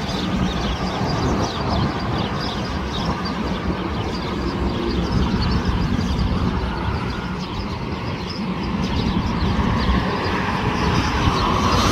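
Steady low rumble of distant jet airliner engines across the airfield, growing louder near the end.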